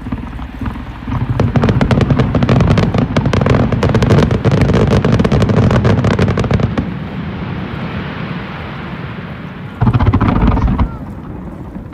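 Fireworks bursting in a dense barrage, many sharp cracks and booms in quick succession for several seconds. The barrage eases into a lower rumble, then another loud burst comes near the end.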